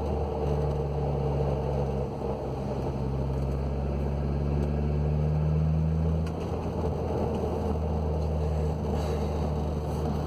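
Audi B6 A4 driving, heard from inside the car: engine running steadily with a whirring from its six-speed manual transmission, a noise the owner takes as serious enough to pull the transmission. The engine note changes about six seconds in.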